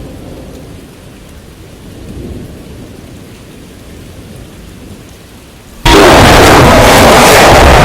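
Rain falling steadily with a low rumble of thunder, then a sudden, very loud thunderclap about six seconds in that holds at full loudness for the last two seconds.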